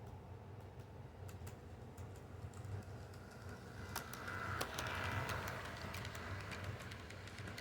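Toy train set running on its track: a steady small-motor hum with scattered clicking. It grows louder about four seconds in, then eases off.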